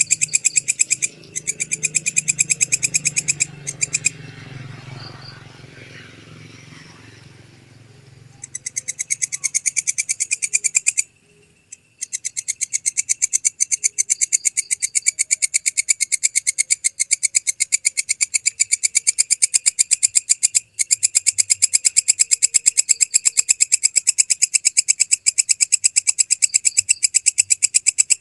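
Walang kecek katydid calling: fast, evenly repeated high-pitched rasping pulses in long trains. It stops for a few seconds about four seconds in, and briefly near eleven seconds, then calls without a break to the end.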